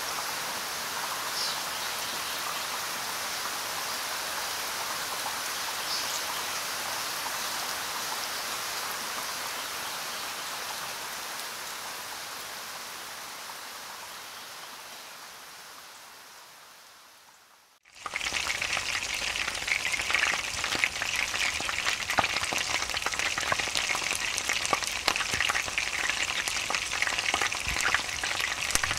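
Chicken sizzling in a hot pan with a little water added: a steady hiss that slowly fades and cuts out about two-thirds of the way through. Then a louder, crackling sizzle with many small sharp pops as the chicken fries.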